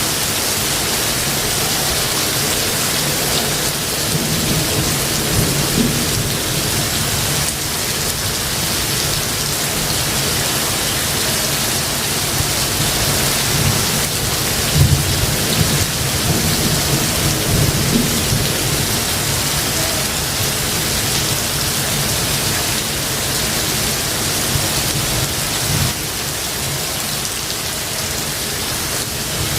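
Steady heavy rain falling, with low thunder rumbling twice, about four seconds in and again around the middle.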